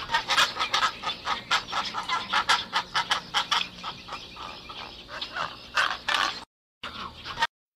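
Bird making a rapid, irregular run of short clicking, clucking sounds, several a second. It breaks off briefly near the end, gives a few more, then stops abruptly.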